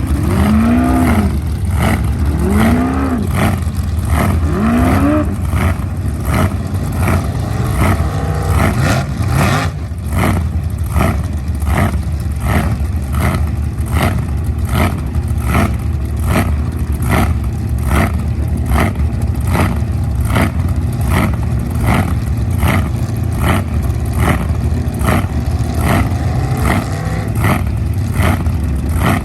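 V8 jet sprint boat engine revving up and down a few times, then running hard and steady, with a regular knock about once a second.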